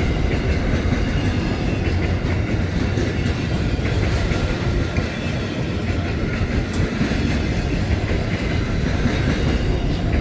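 Aurizon interstate freight train's wagons rolling past close by: a steady rumble of steel wheels on rail, with an occasional clack.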